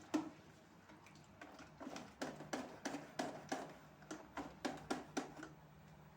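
A sharp knock, then a quick run of light knocks and taps, about three a second, that stops about a second before the end, over a faint steady low hum.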